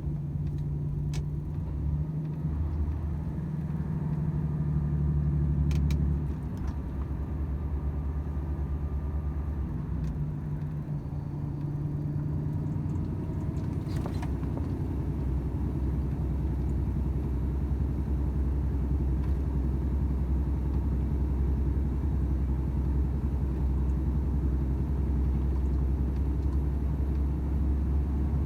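Volvo FH 500 truck under way: its 13-litre straight-six diesel runs with a steady low drone over road noise. The drone drops in level and tone about six seconds in and shifts again a few seconds later.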